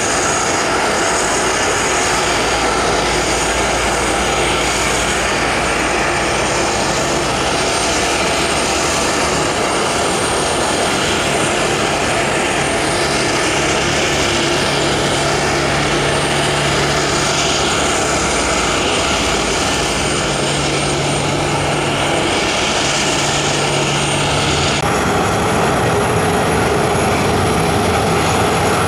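Jet engines of a Boeing 737-400 running with a loud, steady rush and a faint underlying hum. The hiss changes abruptly about 25 seconds in.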